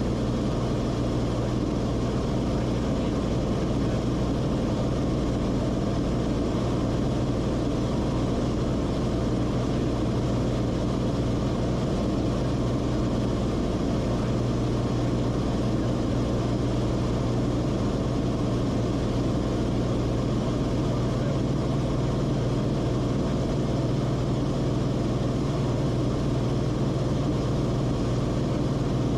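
Steady drone of a Cessna Corvalis TTX's turbocharged six-cylinder engine and propeller, holding an even pitch and level throughout.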